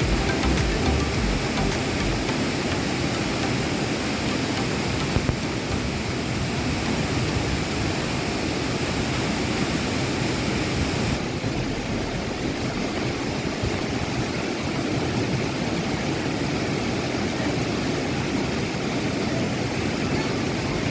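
Waterfall rushing: a steady, even noise of falling water, its highest hiss dropping slightly about halfway through.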